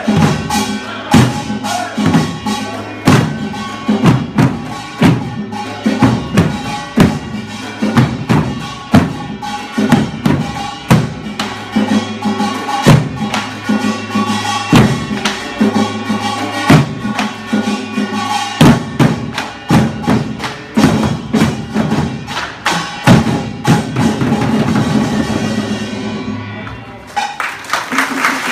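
Korean pungmul percussion for a buk drum dance: barrel drums struck in a steady driving rhythm over ringing metal percussion, the strokes blurring into a fast roll near the end.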